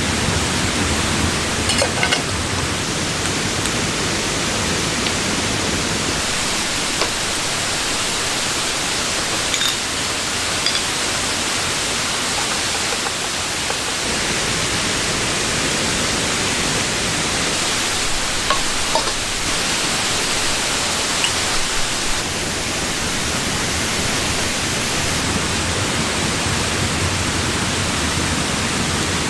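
Steady, dense rushing of water, even and unbroken, with a few faint small ticks over it.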